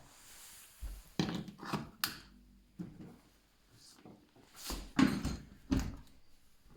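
Dishwasher being handled: a series of separate clunks and clatters, the loudest about five seconds in.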